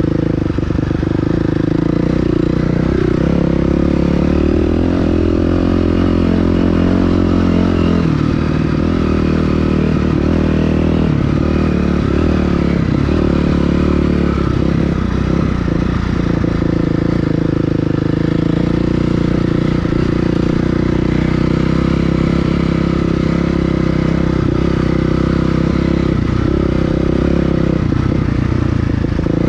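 Dirt bike engine running continuously while being ridden, its pitch holding steady for a few seconds at a time and shifting now and then.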